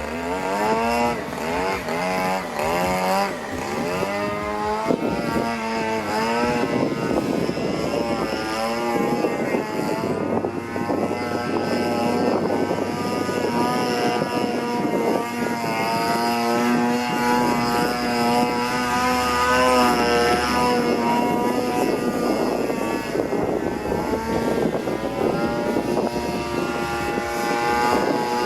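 26cc single-cylinder two-stroke gasoline engine of a large radio-controlled aerobatic airplane in flight, its propeller and engine note rising and falling in pitch again and again as the throttle and the plane's distance change.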